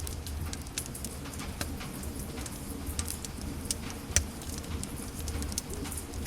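Wood fire in a fireplace crackling, with irregular snaps and pops over a low rumble of the flames; one louder pop about four seconds in.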